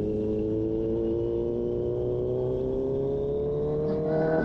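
Kawasaki Z900's inline-four engine under way, its pitch climbing slowly and steadily as the bike gathers speed, then falling sharply as the throttle is closed at the very end.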